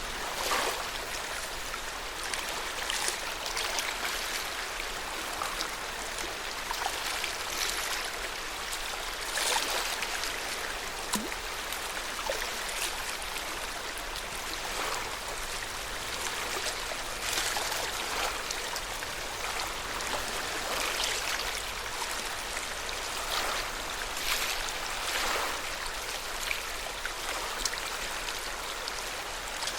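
Lake water lapping at the shore in small waves, with an irregular soft wash every second or two over a steady watery hiss.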